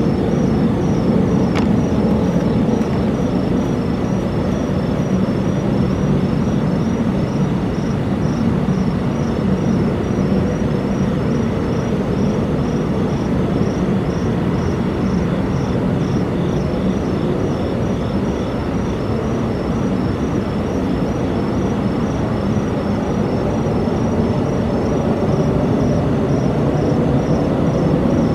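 A loud, steady, low droning rumble of unknown origin, holding level without a break: the unexplained noise that residents reported. A faint, fast, regular chirping runs high above it.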